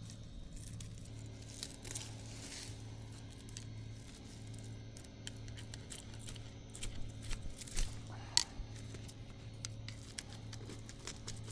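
Weeds and brush being pulled and broken by hand: rustling, crackling and tearing of leaves and stems, busier around seven to eight seconds in and ending that stretch with one sharp snap, over a low steady hum.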